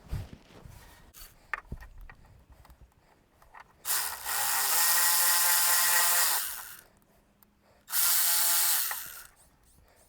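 Power drill-driver tightening the screws and nuts of a transaxle axle boot, run in two bursts: a long run of about three seconds that spins up at the start and winds down at the end, then a short run of about a second. Before the first run, light clicks from handling small metal parts.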